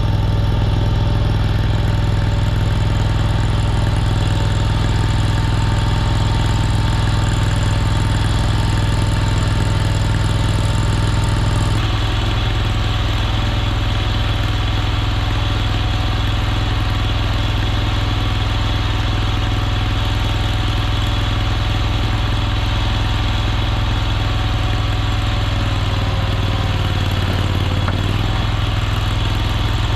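Engine of a Chinese mini skid steer running steadily. The sound shifts abruptly about twelve seconds in, and the engine note dips briefly near the end.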